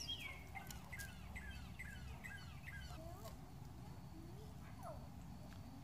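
A faint bird song: a run of quick down-slurred whistled notes, about three a second, for the first few seconds, followed by a few scattered fainter calls.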